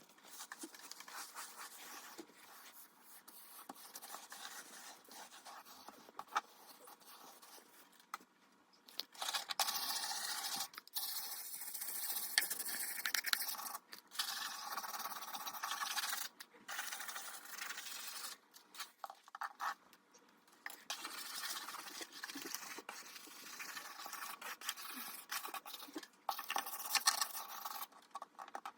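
Scrubbing and scraping on a hard surface as grime is cleaned off the top of a fridge, in stretches broken by short pauses.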